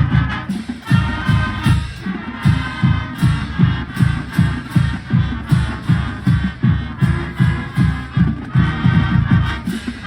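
Marching band music with a steady, heavy beat about twice a second.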